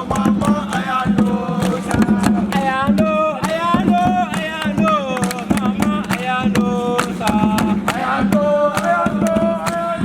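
Voices singing a repeated chant over steady hand-drum beats.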